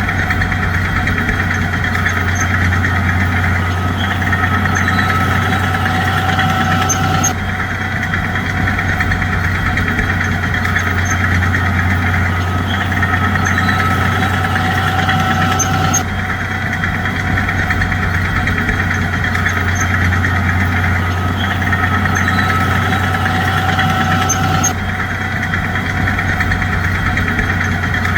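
Bulldozer's diesel engine running steadily with a deep low drone. The sound changes abruptly about every eight to nine seconds, and the same stretch then repeats, like a looped recording.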